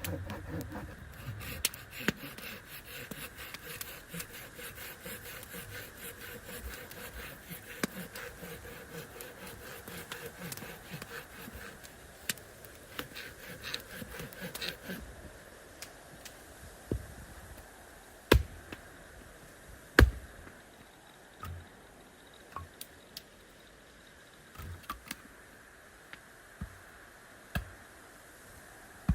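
Wood being worked by hand: rubbing and scraping with many small clicks for about fifteen seconds, then a quieter stretch of scattered sharp knocks, two of them loud about two seconds apart.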